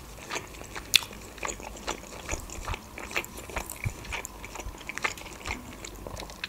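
Close-miked chewing of a boiled pelmeni dumpling: a run of small, irregular mouth clicks and smacks, the sharpest about a second in.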